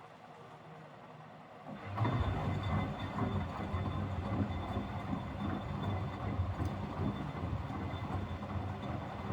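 Miele W761 front-loading washing machine's drum motor starting up about two seconds in. The empty drum then turns steadily in the wash cycle with a low rumble.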